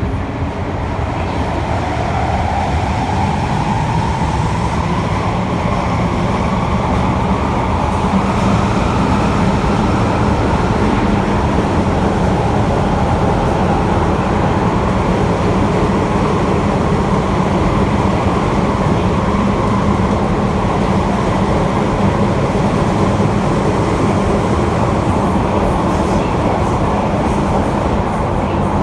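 Osaka Metro 80 series linear-motor subway train heard from inside the car: the Hitachi IGBT inverter whine climbs in pitch over the first several seconds as the train accelerates, then holds steady over the running rumble of the cab and wheels.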